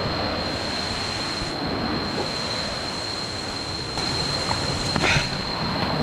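Steady rush of falling water from a jungle waterfall, with a thin, steady high tone over it and a brief higher sound about five seconds in.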